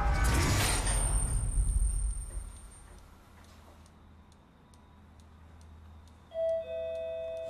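Faint steady ticking, about two ticks a second, after a loud wash of sound fades out over the first two seconds or so; held tones come in near the end.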